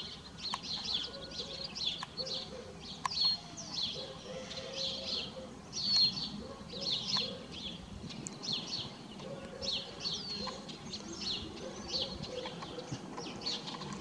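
Small songbirds chirping, with many short high calls repeating through the whole stretch over a faint low hum.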